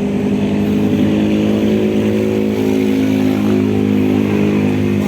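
Heavy truck engine running steadily at a low, even pitch.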